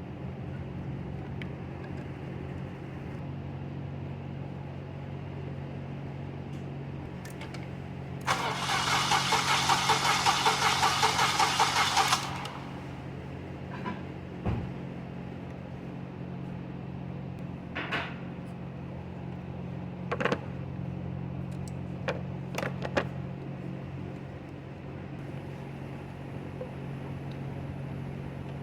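2016 Ford F-150 engine cranking on its starter for about four seconds without catching, pulsing about four times a second, the sign of a no-start. A steady low hum runs under it, and a few short clicks and knocks follow the cranking.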